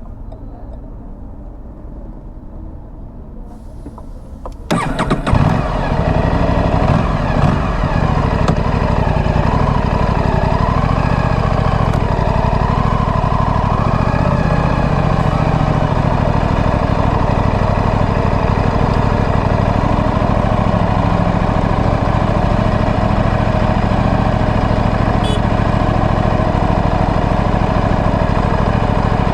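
The stock exhaust of a 2025 Aprilia Tuono 457's parallel-twin engine. It starts about five seconds in, surges unevenly for a couple of seconds, then settles into a steady idle.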